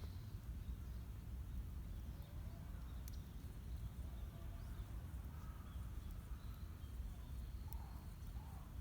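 Birds calling faintly, a few scattered calls, over a steady low outdoor rumble.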